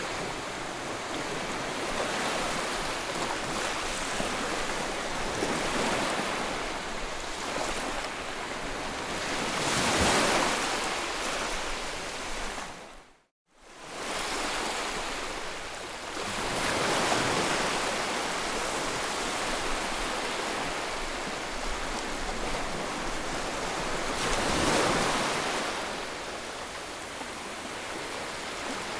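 Ocean surf washing steadily, with waves swelling and breaking louder twice, about ten seconds in and again near the end. About halfway, the sound briefly fades to silence and comes back.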